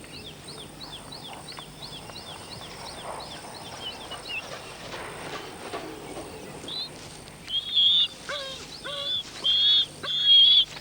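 Bird calls in the wild: a fast series of short, falling chirps, then from about seven seconds in, louder high calls repeated about every half second.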